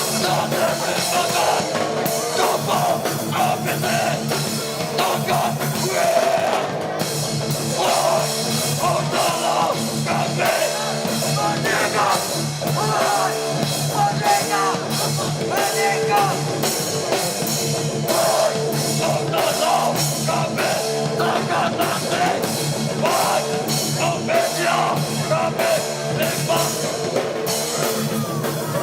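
Hardcore punk band playing live: distorted electric guitar, bass and a fast, driving drum beat, with cymbals crashing in about seven seconds in.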